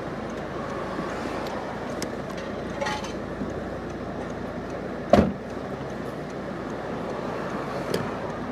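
Steady street traffic noise around a car, with a single sharp thump about five seconds in and a few faint clicks.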